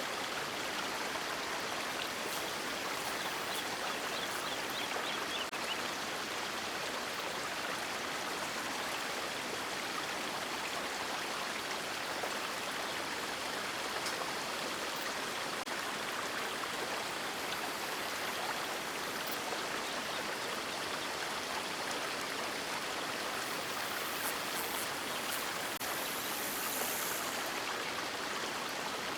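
River water flowing and rushing steadily, an even hiss-like wash of water with no birdsong.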